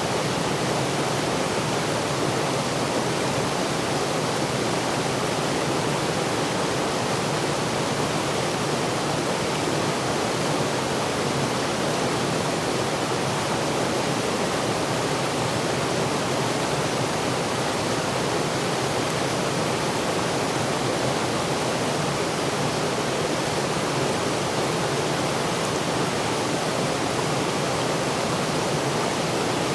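Waterfall crashing steadily: an even, unbroken rush of falling water with no change.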